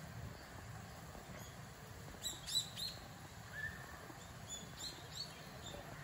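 Birds calling: a quick run of short, high-pitched chirps about two seconds in, a lower single note a second later, and a few more chirps around five seconds in, over a faint outdoor background rumble.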